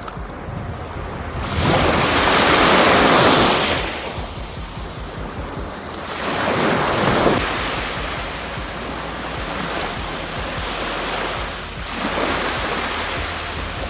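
Sea waves washing onto the shore, three surges, the first the loudest, with wind rumbling on the microphone.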